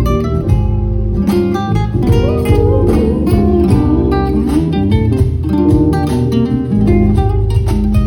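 A band playing a song live: guitar over a steady low bass and a regular beat.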